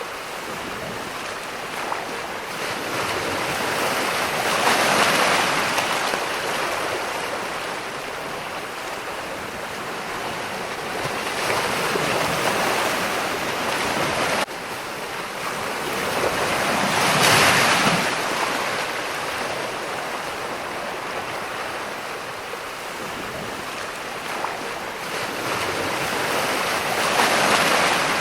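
Ocean surf: a continuous rushing wash of waves that swells four times as waves break and run up, then fades back between them. The level drops abruptly about halfway through.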